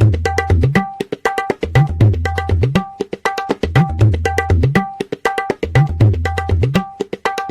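Music: a rhythmic hand-drum percussion loop, with sharp ringing higher strokes and low bass strokes that bend upward in pitch, in a repeating pattern.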